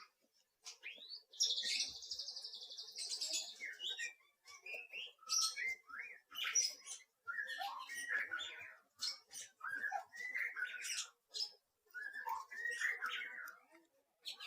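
Songbird chirping and singing: a rapid high trill about a second and a half in, then a run of varied short whistled chirps and warbles.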